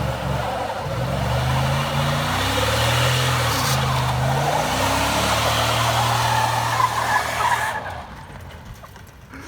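1998 Isuzu Amigo's engine revving up and down under way, over a steady rush of tire noise; the sound drops away sharply about eight seconds in.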